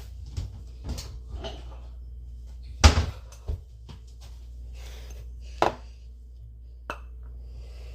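A bowl clattering and knocking as it is taken out and set down on a counter: a scatter of knocks, the loudest about three seconds in, with two more sharp ones later.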